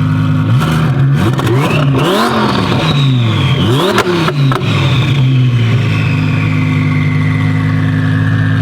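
Twin-turbo Audi R8 V10 engine running close by, revved sharply two or three times, each rev rising and falling in pitch, with a few sharp cracks around the last rev. It then settles back to a steady idle while a high whine slowly falls in pitch.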